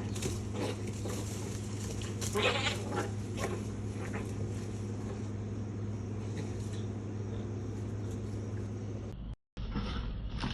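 Cats fighting, with short cries and a louder burst of yowling about two and a half seconds in, over a steady low hum. The sound cuts out briefly near the end.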